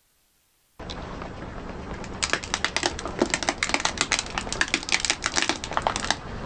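Crunchy objects crushed under a car tyre: a dense, irregular run of sharp crackles and snaps that starts about two seconds in and dies away near the end, over a low steady rumble.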